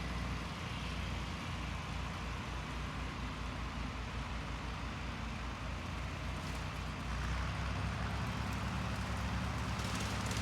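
John Deere 4020 tractor running steadily while pulling a rotary mower, with a low engine drone that grows a little louder about seven seconds in.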